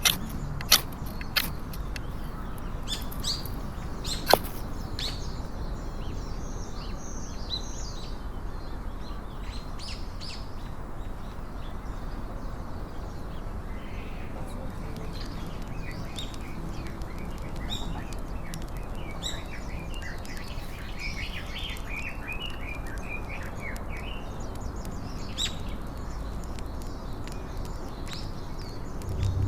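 Small birds chirping and singing, with a few sharp snaps in the first few seconds over a steady low background noise.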